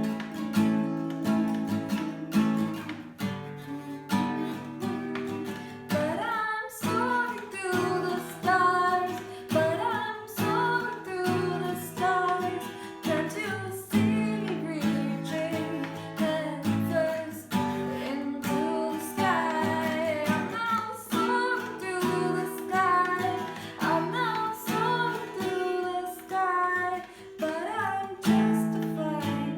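Acoustic guitar strummed steadily, with a woman's voice singing a melody over it from about six seconds in until near the end.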